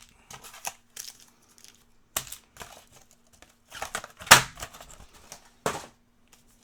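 Trading-card packaging being crinkled and torn open in irregular crackling rustles, loudest about four seconds in, over a faint steady hum.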